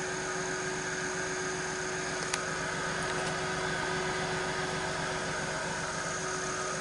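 Old car's engine idling steadily on its first run after sitting a while, with a single sharp click about two seconds in.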